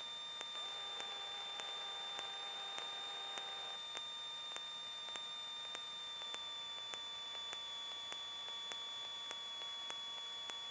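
Faint static hiss on the cockpit audio line, with a steady high-pitched electrical whine and light ticks about one and a half times a second. A weaker, lower hum joins it from about half a second in and stops just before four seconds in.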